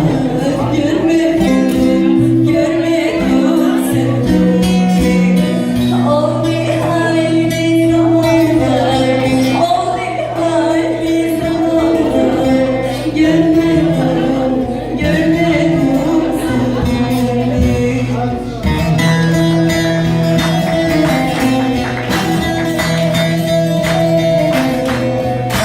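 Turkish song: music with tambourine and plucked strings under a singing voice, with held notes over a steady beat.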